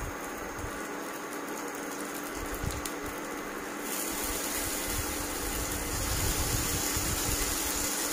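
Okra pieces sizzling in a shallow layer of oil in a nonstick frying pan as they are laid in one by one, over the steady hum of an induction cooktop's cooling fan. The sizzle grows louder about four seconds in, as more pieces go into the pan.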